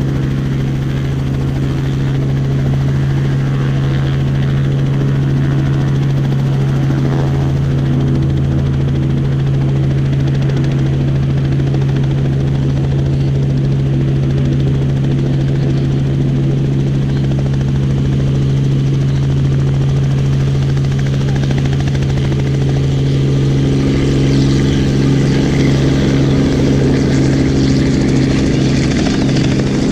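Helicopter running close by: a loud, steady engine-and-rotor hum with a strong low tone, growing louder and brighter near the end.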